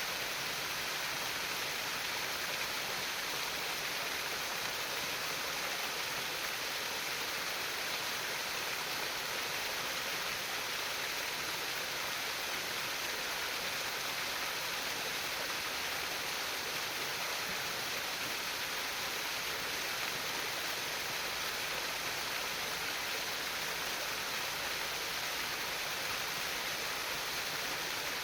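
Flowing stream water babbling constantly: an even, unbroken rushing hiss with no pauses or single events.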